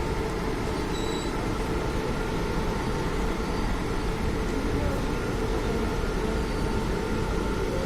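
A train running by with a steady, unbroken rumble, a few faint steady tones above it.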